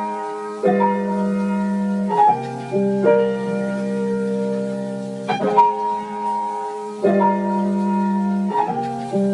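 Instrumental music: soft piano chords struck and held, with several chord changes and no drums or voice.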